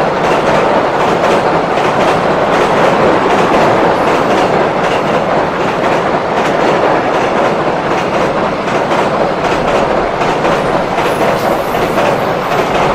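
Long container freight train rolling across a steel girder railway bridge: a loud, steady rumble of passing container wagons with rapid clickety-clack of wheels over rail joints, easing slightly near the end as the train moves away.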